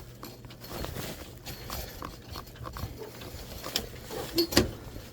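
Handling noise of light knocks and rustling, with two sharper knocks about a second apart near the end.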